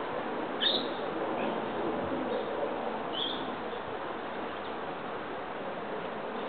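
A small bird chirping twice, short high notes about a second in and about three seconds in, over a steady outdoor background hiss.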